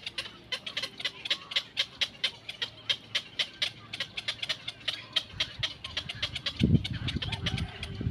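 A bird chirping in rapid, short high notes, about five a second. About two-thirds of the way in, a louder low rumble and thumps join the chirping.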